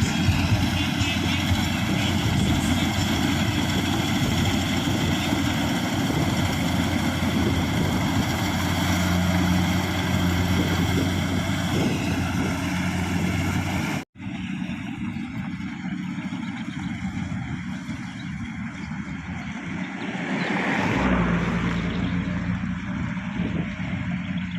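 Kubota combine harvester's diesel engine running steadily under load, a continuous drone with machinery noise. About halfway through it cuts abruptly and comes back quieter and duller, then swells briefly near the end.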